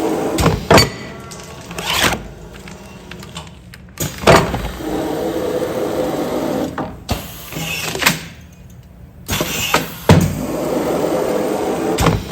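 Automatic cup and container sealing machine cycling continuously: a stretch of steady motor running, then a series of sharp clunks and knocks as it presses and seals film onto a container, the whole cycle repeating about every six seconds.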